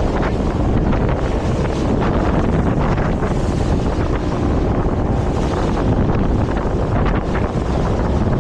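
Wind buffeting the microphone on a moving boat, a loud steady rush over the noise of the boat and water.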